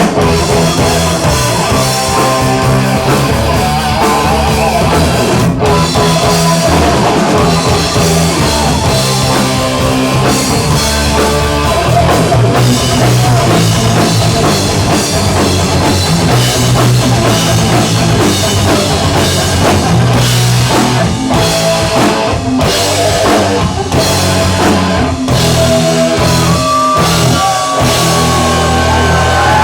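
Live hard rock band playing an instrumental passage: electric guitar, bass guitar and drum kit, loud and continuous, with sliding guitar notes near the end.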